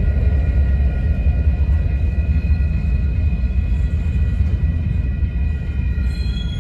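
Train running past with a heavy, steady low rumble and a few faint, steady high-pitched tones ringing over it.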